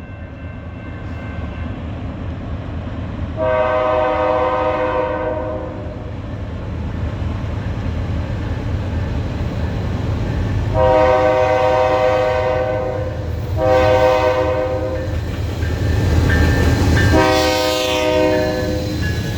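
Canadian National diesel locomotive's air horn sounding four blasts: one on its own, then three close together near the end. Underneath is the steady rumble of the train's diesel engines, growing louder as the train approaches.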